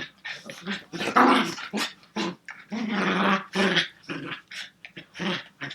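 Young chihuahua puppies growling as they play-fight, in short irregular bursts.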